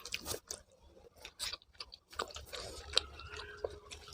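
A person chewing and eating food, with soft, irregular wet mouth smacks and clicks.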